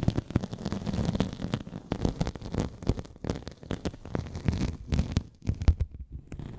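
Close-miked ASMR trigger sounds: dense, irregular soft crackling and clicking over a low rumble, with no speech.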